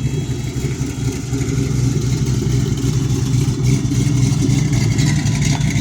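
Fire engine's engine running steadily, a strong low hum.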